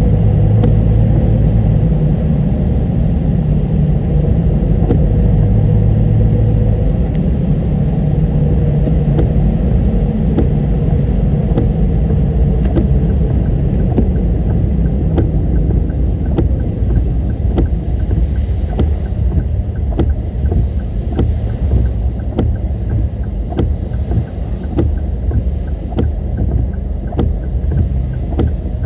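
A car driving on a road: a steady rumble of engine and road noise, with a run of regular light ticks through the second half.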